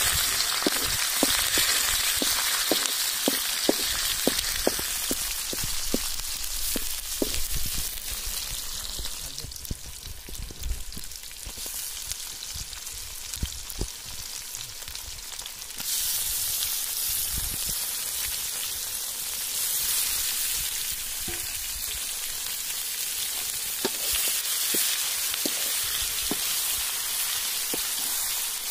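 Onions and then pork pieces frying in hot oil in a steel wok, a steady sizzle with many sharp pops and crackles. The sizzle steps up louder about halfway through.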